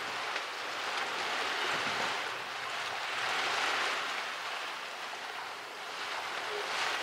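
Rain and wind of a storm: a steady hiss that swells around the middle and eases toward the end.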